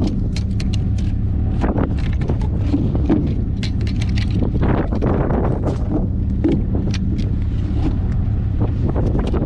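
Vehicle engine running steadily, with scattered knocks and clatter over it.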